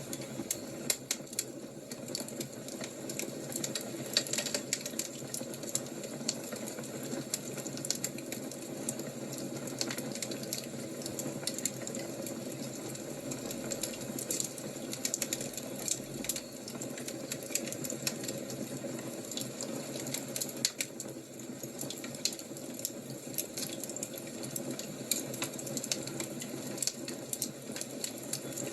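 Fire crackling: a steady bed of burning with many small, irregular crackles and pops throughout.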